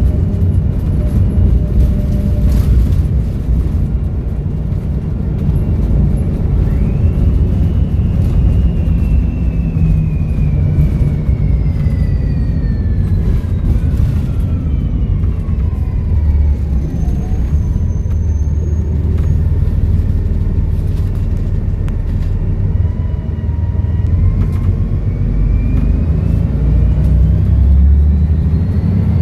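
Volvo B7RLE bus's diesel engine running with a heavy low rumble, its turbo whistling. The whistle rises sharply about seven seconds in and then slowly falls away over about ten seconds, and it climbs again near the end.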